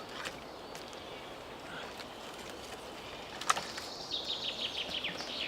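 A songbird sings a quick trill of short, high notes falling in pitch near the end, over quiet forest background. A couple of soft wooden knocks come earlier as logs are laid down.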